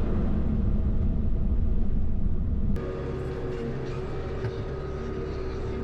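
A vehicle engine running, deep and steady. About three seconds in the sound changes abruptly to a slightly quieter engine hum with a clear steady tone.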